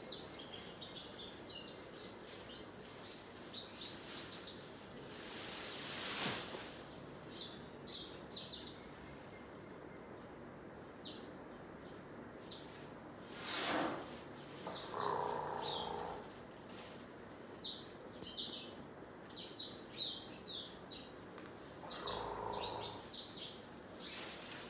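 Small birds chirping, many short high calls scattered throughout, with a couple of louder whooshing noises about six and fourteen seconds in.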